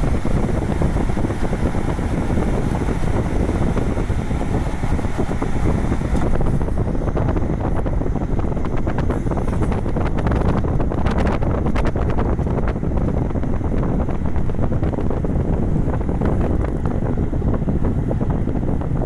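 Wind buffeting the microphone: a steady, low rumbling noise that turns duller about six seconds in.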